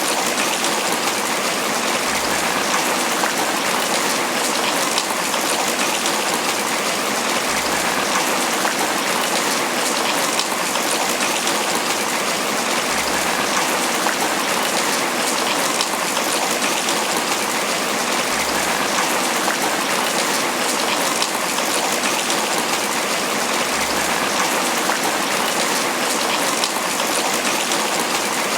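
Steady tropical rain falling on banana leaves: an even, unbroken hiss of many drops.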